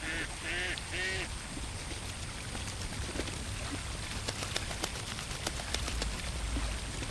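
A duck quacks three short times in the first second. A few seconds in, a patter of small, sharp water drips and splashes follows, over a steady low rumble of outdoor pond ambience.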